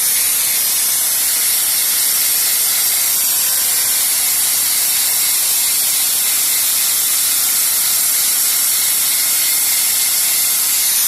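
Paint spray gun hissing steadily with compressed air as the tool box is sprayed, an even high hiss with no breaks.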